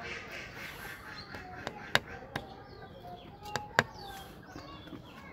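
Birds chirping and calling in many short, overlapping calls, with a few sharp clicks. The loudest clicks come about two seconds in and again near four seconds.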